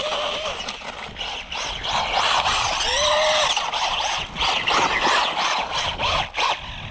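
RC car driving hard, its motor whining up and down in pitch with the throttle over gritty tyre and ground noise, in repeated surges.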